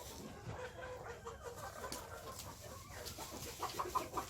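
White Face Spanish chickens clucking, with a quick run of short clucks near the end.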